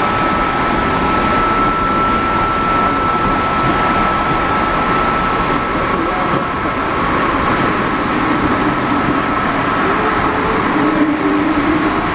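Santiago Metro NS-74 rubber-tyred train running, with a loud steady rolling noise. A steady high tone fades after about six seconds, and lower tones come in near the end.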